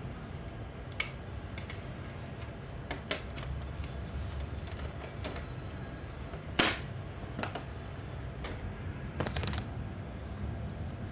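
Scattered sharp clicks and knocks, such as hard parts and tools being handled, over a low steady hum. The loudest knock comes about six and a half seconds in, and a quick cluster of clicks follows a little after nine seconds.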